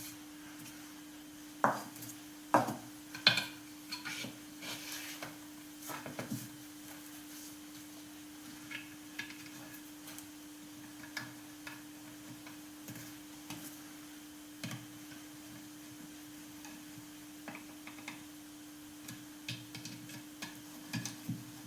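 Small metal parts being handled and fitted together by hand: scattered clicks and clinks, with a few louder knocks in the first few seconds, over a steady hum.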